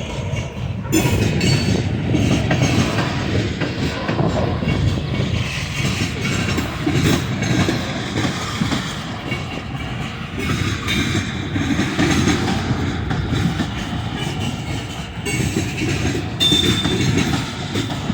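A train rolling past, its wheels clattering over the rails in a steady, continuous run of noise.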